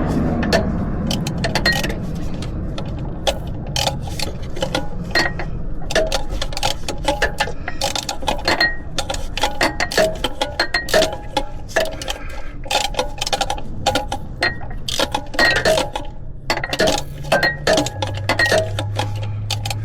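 Wrench work on a thermostat housing bolt: many irregular sharp metallic clicks and clinks, some with a brief ringing note, over a steady low hum. A louder low hum comes in near the end.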